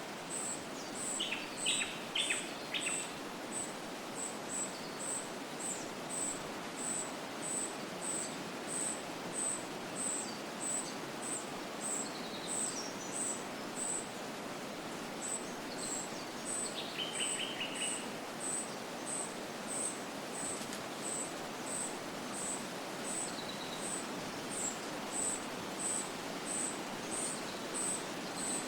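Forest ambience: a steady hiss of wind through the trees, with a high chirp repeating evenly about one and a half times a second. A few short bird calls come in near the start and again past the middle.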